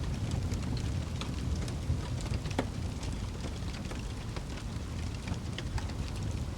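Wood fire burning in a fireplace: a steady low rumble of flames with frequent small, sharp crackles and pops, one louder pop about two and a half seconds in.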